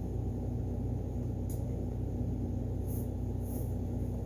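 Steady low hum of room background noise, such as an appliance or air conditioner, with a faint tick about a second and a half in.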